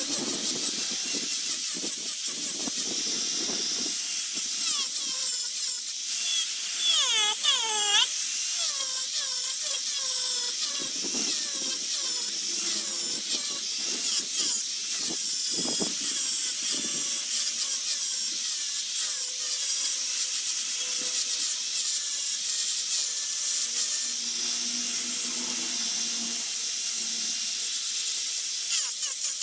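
High-speed rotary power tool carving a wooden bowl, a continuous high-pitched whine with a hiss of cutting. About seven seconds in, its pitch dips and recovers several times as the bit bites into the wood.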